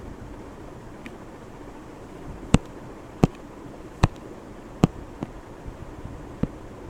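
A series of sharp, short knocks or taps, about five spaced roughly a second or less apart, over a steady background hiss.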